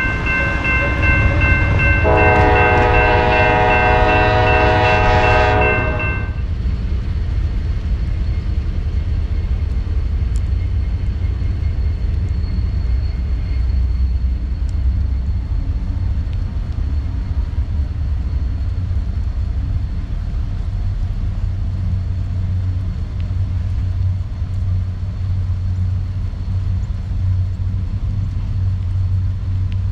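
Norfolk Southern freight train's diesel locomotive horn sounding a long chord that fills out with lower notes about two seconds in and stops about six seconds in. Under it and afterwards, the locomotives and train rumble steadily as they roll by.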